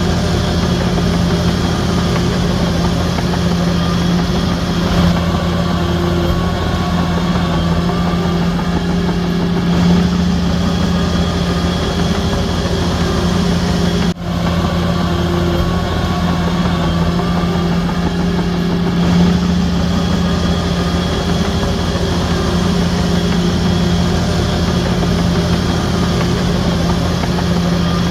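Heavy diesel engine of a Shantui DH17C3 crawler bulldozer running steadily, with a deep, even drone and a very brief dropout about halfway through.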